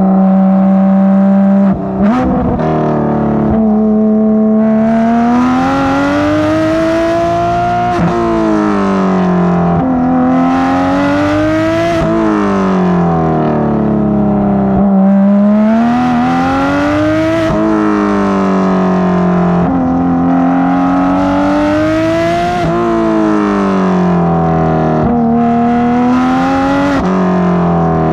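Porsche 991.2 GT3 RS's naturally aspirated flat-six, fitted with Dundon street headers and crack pipe exhaust, being driven hard: the engine note climbs and falls again and again every few seconds, with a brief break about two seconds in.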